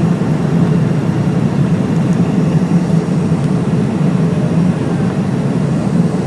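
Steady low rumble of an airliner's engines and rushing air, heard from inside the passenger cabin during the landing.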